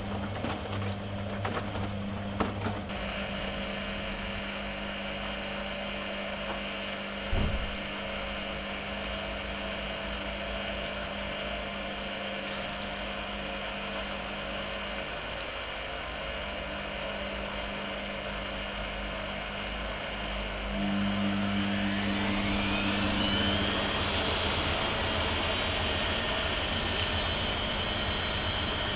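Privileg 370 S washing machine running, with a single thump about seven seconds in. About two-thirds of the way through its motor speeds up: the sound gets louder and a whine rises in pitch for a few seconds, then holds steady.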